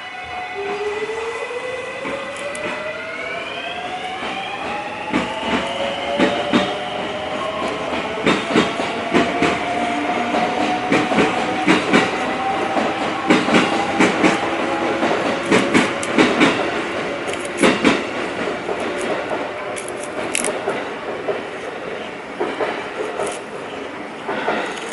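Electric train pulling away: its motor whine rises slowly in pitch over about the first fifteen seconds, with many irregular clacks and knocks of the wheels running over the rails.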